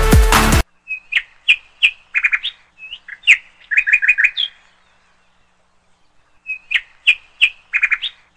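Music cuts off abruptly under a second in, followed by a songbird singing a phrase of sharp, clear notes and quick runs of four or five notes. After a pause of about two seconds it sings the same phrase again.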